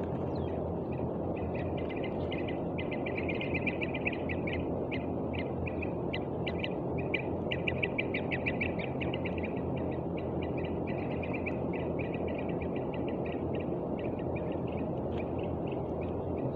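Young birds giving rapid trains of short, high chirps, again and again, in fright, over a steady low noise.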